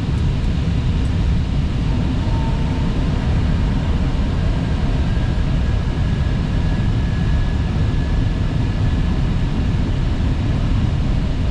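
Steady rumble and rush of engine and airflow noise inside an Airbus A320 cockpit on final approach, with a faint thin tone for a few seconds partway through.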